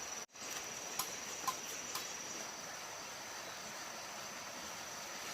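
Outdoor ambience with a steady high-pitched insect drone, such as crickets or cicadas. A few light clicks come about a second in, again half a second later, and once more near the two-second mark.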